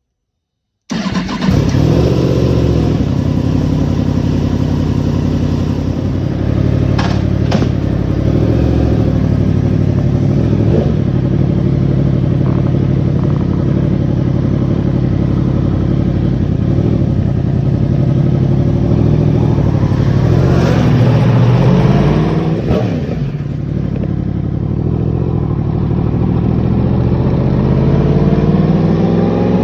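Yamaha MT-10 crossplane inline-four motorcycle engine running through an aftermarket-or-stock exhaust comparison setup: the sound cuts in suddenly about a second in, idles steadily, is blipped up around two-thirds of the way through, and rises in revs again near the end.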